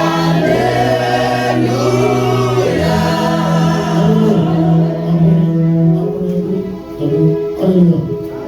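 Church choir and congregation singing a gospel hymn in long held notes over a bass accompaniment, fading down near the end.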